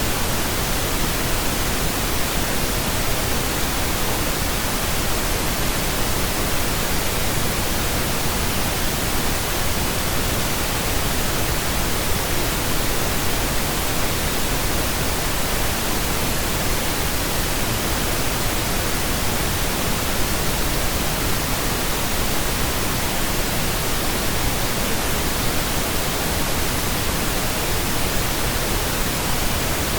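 Steady pink noise: an even, unchanging hiss with no tones or events.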